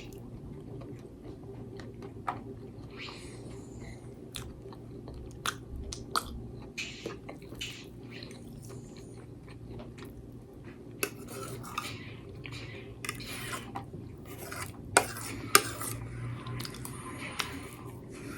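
Cutlery clinking against a plate in scattered sharp clicks, two louder ones close together late on, with chewing between them.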